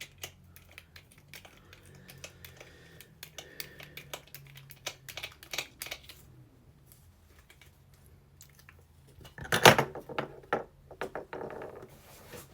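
Many small plastic clicks and rattles from batteries being fitted into a Buzz Lightyear action figure's battery compartment, with a louder clatter about nine and a half seconds in.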